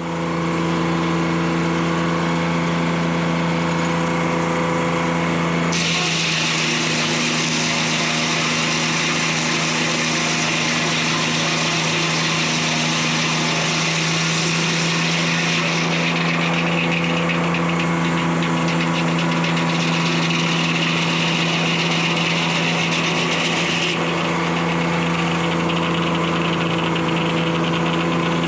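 Detroit Diesel 3-71 two-stroke diesel running steadily, driving a 52-inch circular sawmill blade. About six seconds in, a loud high hiss joins it as the blade cuts through a log; the hiss shifts in tone partway through the cut.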